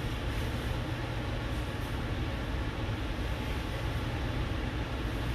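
Steady low rumble with an even hiss over it, unchanging throughout, with no distinct knocks or clicks.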